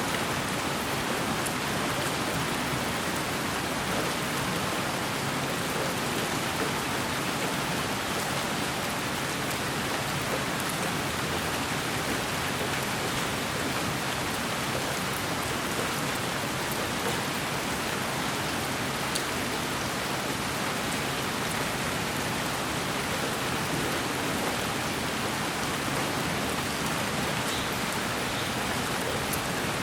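Steady, even white-noise hiss for lulling a baby to sleep, a rain-like wash with a few faint high ticks and no change in level.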